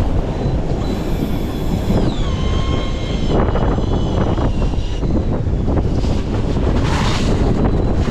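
Strong wind blowing across the microphone aboard a fishing boat in rough, heavy seas, with waves underneath. A faint high whine drops in pitch about two seconds in.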